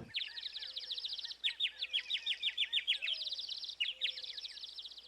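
Birds chirping and trilling: fast high trills overlapping with rows of short repeated chirps, a few birds at once.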